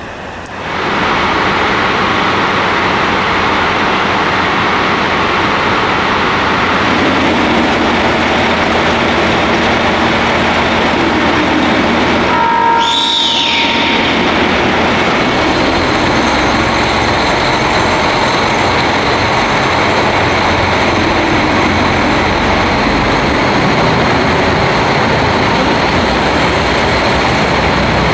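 JR Hokkaido KiHa 261 series 5000-number diesel resort train (Lavender/Hamanasu set) running, a steady loud noise of engine and wheels on rail that swells in during the first second, briefly broken about halfway through.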